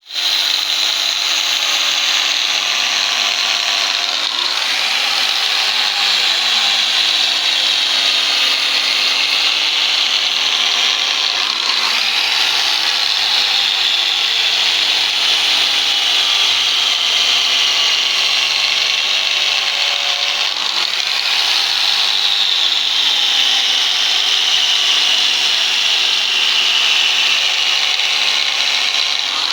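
Wire brush scouring a teak wood surface, a steady scratching hiss with no pause, its high edge drifting slowly up and down, as the soft grain between the harder growth rings is stripped away to raise the grain.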